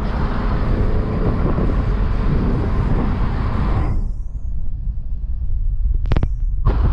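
Car on the move: heavy low rumble of road and wind noise, with a loud rushing hiss for the first four seconds that then falls away, leaving mostly the low rumble.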